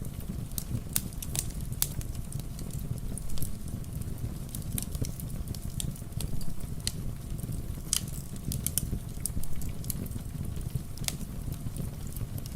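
Wood fire crackling, with frequent irregular sharp snaps over a steady low rumble, mixed with rain.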